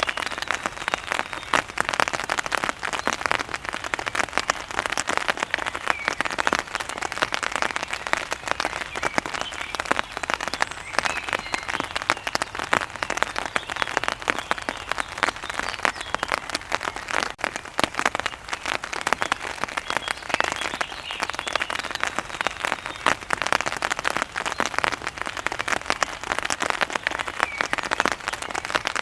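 Steady rain falling on a hard surface, a dense crackle of close individual drops that holds at an even level.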